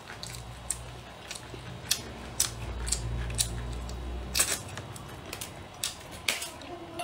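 Close eating sounds of someone gnawing and chewing a spicy chicken leg on the bone: irregular sharp mouth clicks and smacks, with a low rumble under the first four seconds or so.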